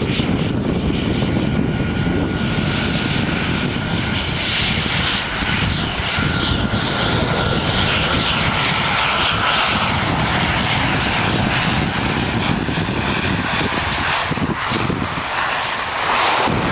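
Jet airliner passing close on its landing approach: a loud, steady engine rush with a thin high whine that fades out about halfway through.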